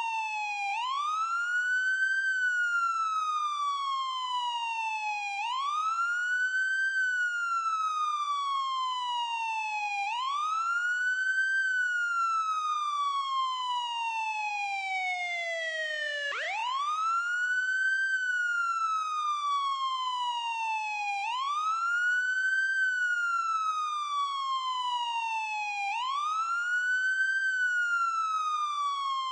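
Ambulance siren wailing: a single tone that climbs quickly and then slides slowly down, once about every four and a half seconds. About halfway through, one fall runs lower than the rest and the next rise starts abruptly.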